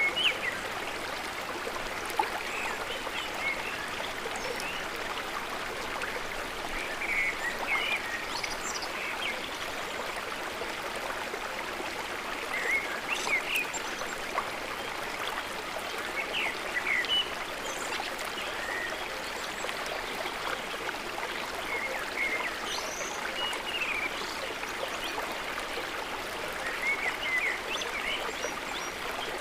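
River water flowing steadily, with short high chirps scattered throughout.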